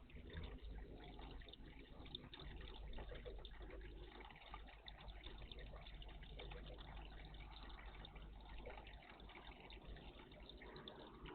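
Faint water trickling and splashing in a garden bird bath, a steady, busy patter of small drops.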